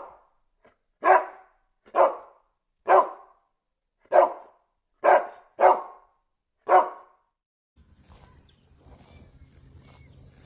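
A dog barking: about eight sharp, single barks, roughly one a second, stopping about seven seconds in, after which only faint low background noise remains.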